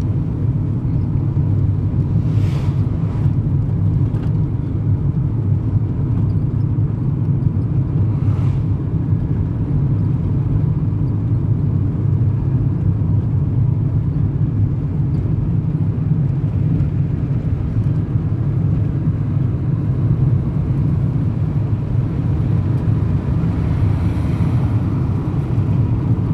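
Steady low rumble of a car driving, engine and road noise. Brief hissing swells at about two and a half seconds, eight seconds and twenty-four seconds.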